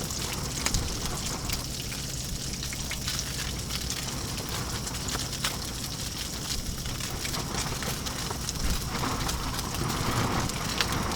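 Salmon frying in a pan on a propane camp stove: a steady sizzling hiss with many small crackling pops.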